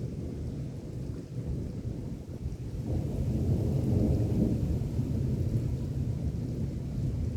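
Rolling thunder from a thunderstorm, a deep rumble that builds and swells about three seconds in and keeps rumbling.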